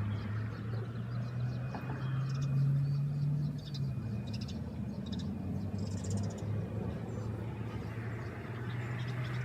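A steady low motor hum, its pitch shifting slightly, with a few faint short high chirps and clicks from the small birds feeding at the corn.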